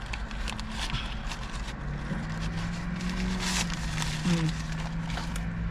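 Takeout food being handled: scattered rustling and crinkling clicks over a steady low hum, with a low held tone coming in about two seconds in.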